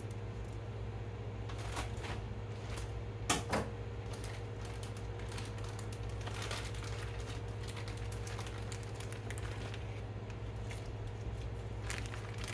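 Light clicks and taps of kitchen handling, with two sharper knocks about three and a half seconds in, over a steady low hum.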